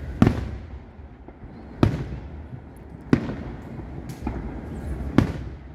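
Fireworks bursting overhead: five sharp bangs roughly a second apart, each followed by a short echoing tail.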